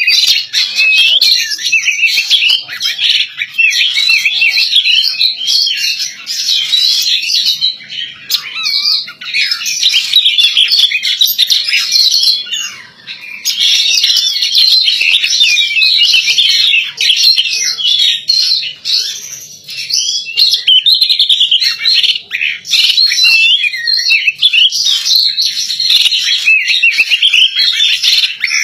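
Female oriental magpie-robin singing a fast, continuous, varied warbling song, with a brief pause about twelve seconds in.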